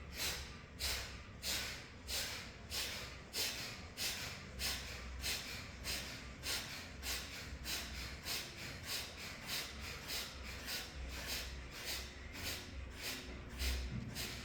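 Kapalbhati breathing: a steady run of short, forceful exhalations through the nose, each a sharp hiss, at about three every two seconds.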